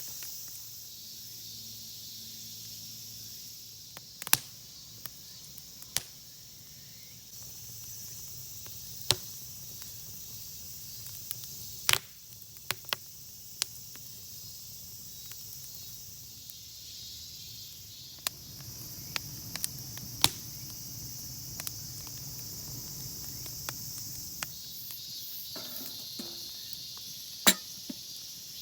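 Steady high insect chorus in the forest, broken by scattered sharp clicks and knocks at irregular intervals.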